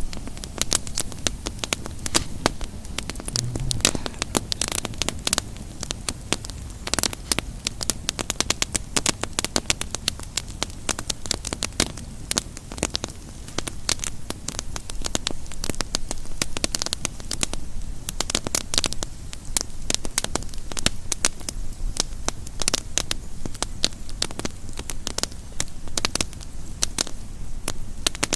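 Campfire crackling: a dense, irregular run of sharp pops and snaps over a steady low hiss.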